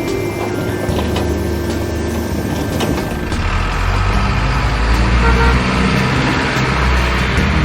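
A truck engine running steadily, growing louder from about three seconds in.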